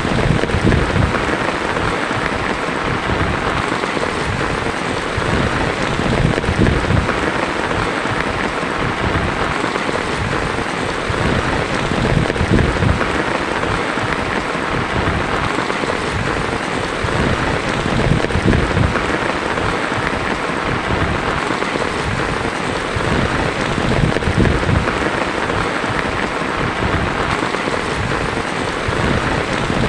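Heavy rain drumming steadily on a tin roof, a dense even patter with a deep low rumble under it.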